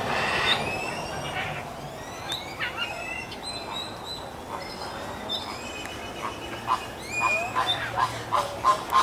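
Mixed captive birds calling in an aviary: many short chirps and whistles, then, from about two-thirds of the way in, a louder run of short repeated calls at about three a second.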